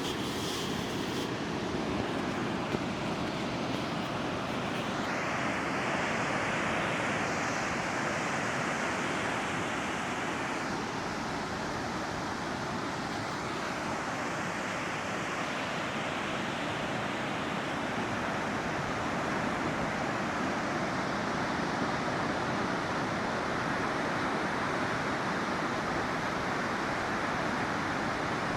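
Pacific Ocean surf breaking and washing on a sandy beach, a steady rush. A louder wash swells about five seconds in and fades by about eleven seconds.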